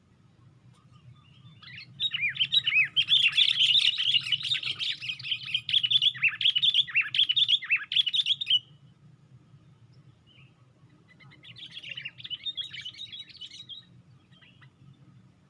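Sooty-headed bulbul (kutilang) song: a loud, rapid chattering run of chirps lasting about seven seconds, then a shorter, quieter burst a few seconds later, over a faint low hum.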